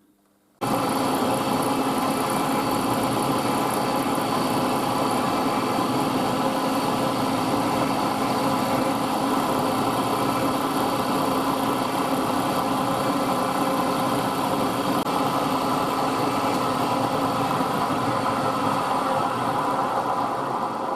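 Milling machine running steadily, its motor and spindle gearing making a dense mechanical hum. It starts suddenly about half a second in and begins to die away at the very end.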